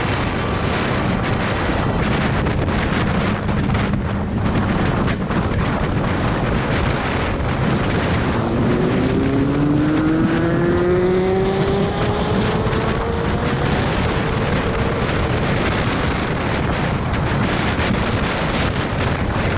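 Motorcycle riding at speed with heavy wind rush on the microphone. From a little under halfway through, an engine's pitch climbs steadily for several seconds as the bike accelerates.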